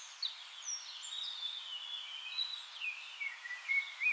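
Birds singing: several overlapping high whistled chirps and phrases that slide up and down, over a steady hiss.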